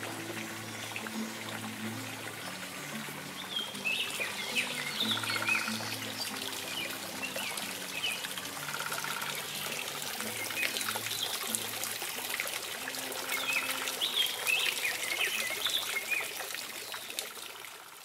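Songbirds chirping in two bouts, one about four seconds in and another near the end, over soft background music with low held notes and a steady hiss.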